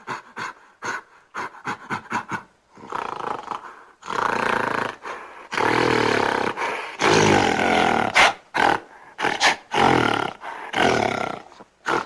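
Gorilla sounds: a quick run of short sharp sounds, then from about four seconds in several long, loud roars and growls.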